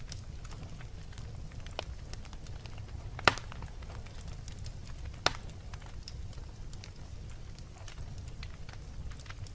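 Wood fire burning in a fireplace: a steady low rumble with scattered small crackles, and two sharp pops, the louder about three seconds in and another about five seconds in.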